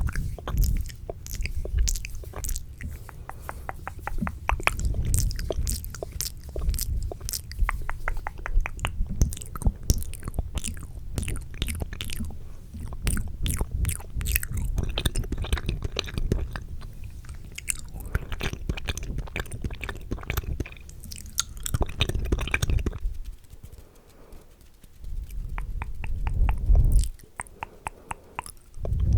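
Fast, aggressive ASMR mouth sounds close to a microphone: quick runs of wet clicks and smacks over a low rumble, easing off briefly about three-quarters of the way through.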